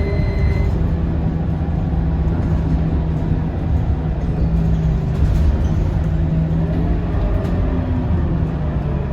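Scania K230UB single-deck city bus's diesel engine running steadily as the bus drives along, with road and body rumble heard from inside the cabin. A short, faint high beep sounds at the very start.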